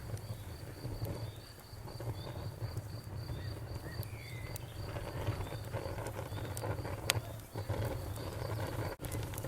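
Crickets chirping in a steady, fast pulsing rhythm over the low hiss and scattered sharp pops of a crackling bonfire, with one louder pop about seven seconds in.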